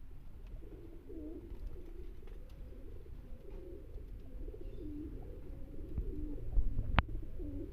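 Domestic pigeons cooing over and over in a loft, with a sharp click near the end.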